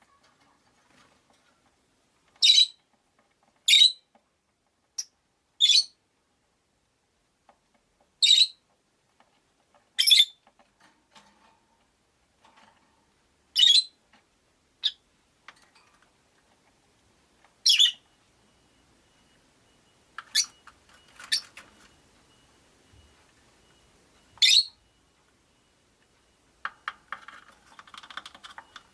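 Rosy-faced lovebirds giving short, sharp, high-pitched chirps, one at a time with gaps of one to four seconds, about a dozen calls in all.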